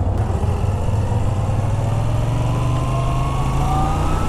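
Motorcycle engine running under steady acceleration, its pitch rising slowly and evenly over a deep low rumble.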